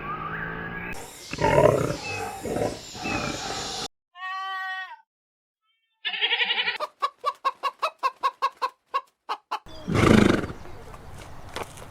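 Farm animal calls in a string of short clips: a few low calls, then a brief clear high-pitched call, then a quick run of pulsed calls at about five a second, and one loud low call near the end.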